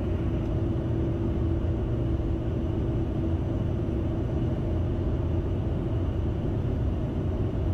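Steady cockpit noise of a Bombardier Challenger 650 business jet on final approach with gear and flaps down: a constant low rush of airflow and its twin turbofan engines, with a steady hum under it.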